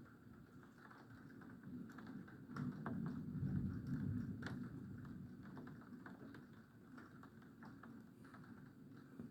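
Low rumble of distant thunder swelling about two and a half seconds in and fading away over the next few seconds, with scattered clicking patter of raindrops throughout.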